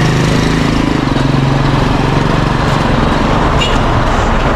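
A motorbike engine running close by, its hum fading over the first second or so, over a steady roar of heavy road traffic. A brief high squeak sounds about three and a half seconds in.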